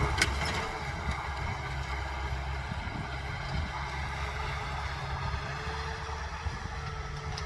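Kubota M6040 tractor's diesel engine running steadily under load while plowing a rice field, with one sharp click just after the start.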